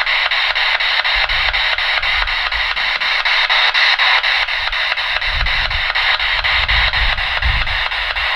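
Spirit box radio scanner sweeping through stations: a steady hiss of static, rapidly and evenly chopped as it jumps from frequency to frequency.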